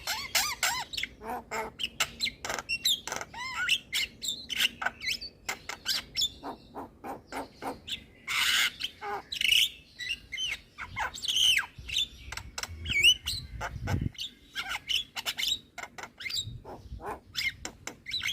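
Javan myna singing a long, varied run of sharp clicks, whistled notes and harsh squawks, with a rasping burst about halfway through.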